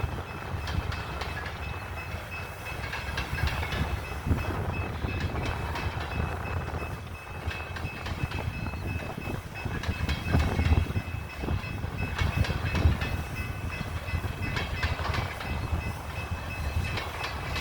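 BNSF coal train rolling on the rails: a steady low rumble with irregular wheel clicks and clatter.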